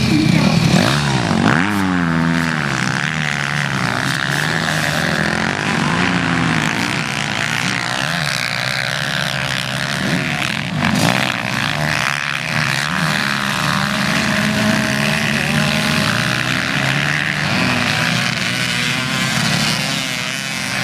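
Motocross motorcycles racing, several engines at once revving up and down, their pitches rising and falling and overlapping.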